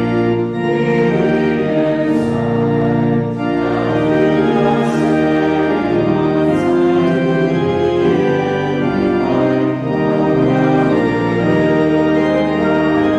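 Church organ playing, full sustained chords moving steadily from one to the next.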